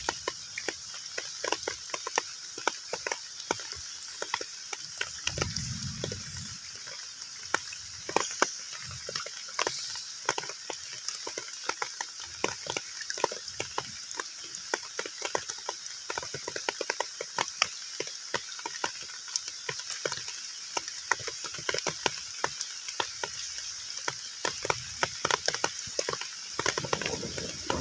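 Rain falling on a pond's surface: a steady hiss packed with many individual drops plinking and splatting on the water. Near the end a louder, lower water splashing swells up.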